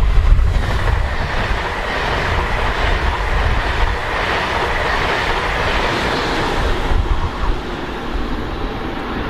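A train passing on the rails, its wheel and running noise swelling to a peak about five seconds in and fading toward the end.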